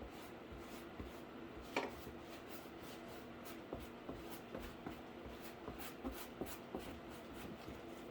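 Faint scattered taps and rubbing from handling and working on a cardboard case, with one sharper knock about two seconds in, over a steady low hum.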